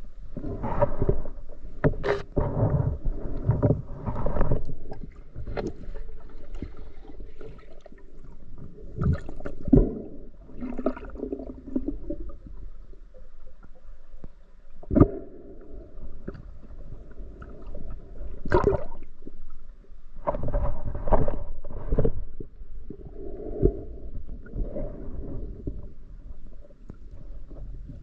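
Water sloshing and gurgling close to the microphone in irregular surges, with a few sharp knocks.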